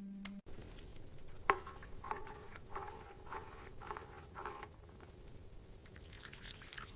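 Light rain, a steady soft hiss. A sharp click comes about a second and a half in, then five soft knocks about every half second.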